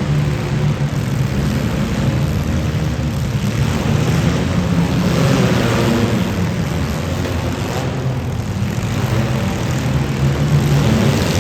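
Demolition derby car engines running loudly and steadily, with a low engine drone and some rise in the higher noise around the middle.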